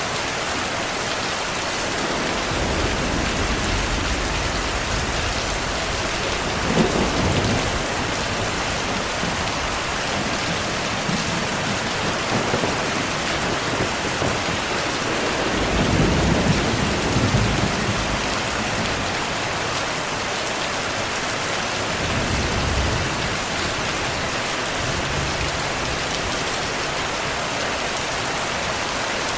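Steady heavy rain with thunder rumbling low several times; the longest, loudest rumble comes about halfway through.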